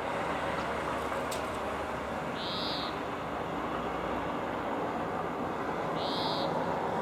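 Two short, pure whistled calls from a small bird at a balcony feeder, one about two and a half seconds in and one about six seconds in. Under them is a steady hum of city traffic.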